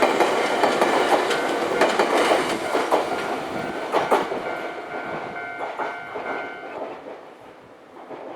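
Nankai Kada Line electric train passing over a level crossing, its wheels clattering over the rail joints. The rumble fades steadily over the last few seconds as the train moves away.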